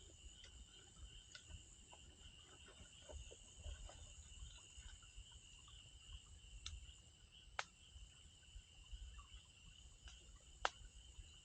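Faint steady chirring of insects in the evening, with a few sharp pops from burning firewood, the loudest two about seven and a half seconds in and near the end.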